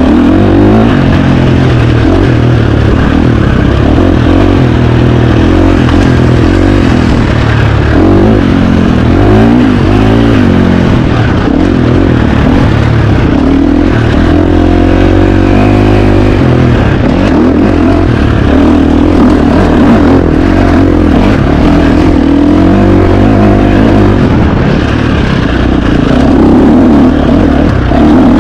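Loud KTM 350 XC-F four-stroke single-cylinder dirt bike engine being ridden hard, revving up and down continuously, its pitch rising and falling every second or two.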